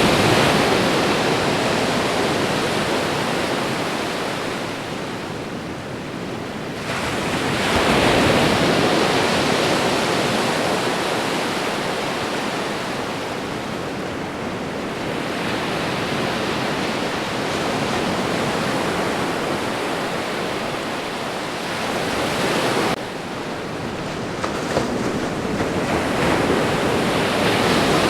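Ocean surf: waves breaking and washing in, a continuous rushing noise that swells and ebbs every several seconds, with one sudden drop in level about two-thirds of the way through.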